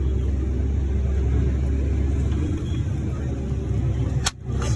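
Heavy farm machinery engine running steadily with a deep rumble; the sound cuts out abruptly for a moment near the end.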